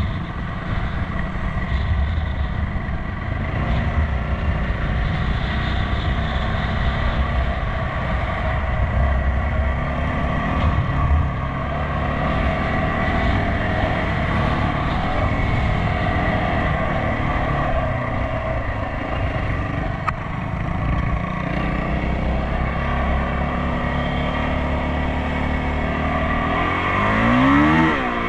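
Enduro motorcycle engine running under way, its pitch shifting with throttle; near the end the revs rise and fall sharply twice.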